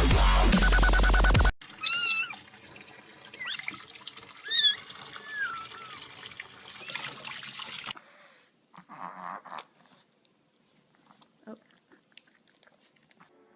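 Electronic dubstep music that cuts off suddenly about a second and a half in, then a cat meowing several times, the loudest meow first, over water running from a tap. After about eight seconds only faint scattered small sounds remain.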